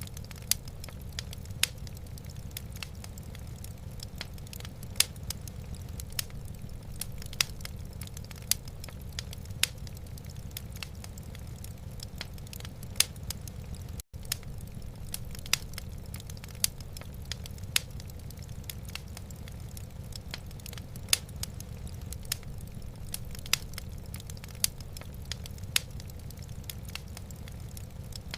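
Wood fire burning in a fireplace: irregular sharp crackles and pops, a few a second, over a steady low rumble. The sound cuts out for an instant about halfway through.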